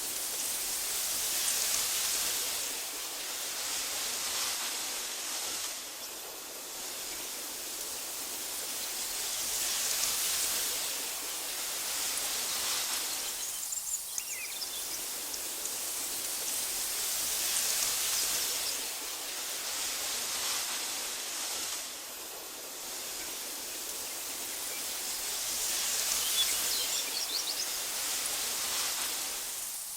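Breeze blowing through tall meadow grass: a steady hiss that swells and eases about every eight seconds. A few faint bird chirps come in around the middle and again near the end.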